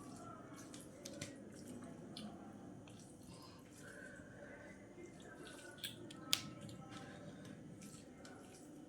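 Close-miked eating of rice and vegetable curry: soft wet mouth clicks and squelches while chewing, with one sharper click about six seconds in.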